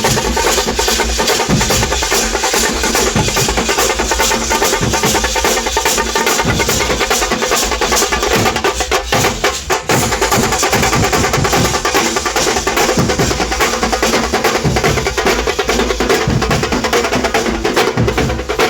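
Loud drum ensemble playing a dense run of rapid, sharp stick strokes without a break.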